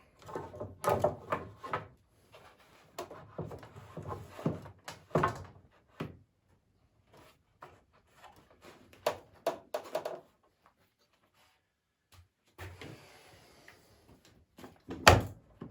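Poplar boards being handled at the workbench: scattered knocks, clatters and scrapes of wood on wood, with one heavy thump near the end.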